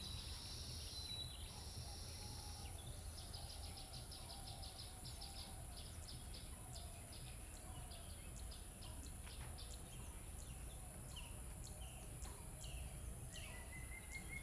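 Birds chirping and calling in short, repeated notes, with one call stepping upward near the end. Beneath them run a steady low rumble and a constant high-pitched whine.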